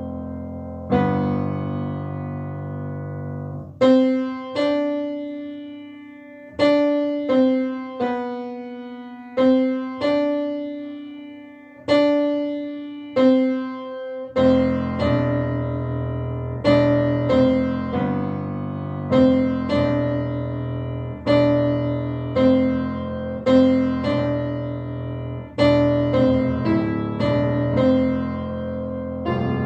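Piano played slowly: a simple self-composed melody of single notes, each struck and left to ring and fade, over low bass notes. The bass drops out for a few seconds and comes back about halfway through, where the notes come a little faster. The piece is meant to sound sad.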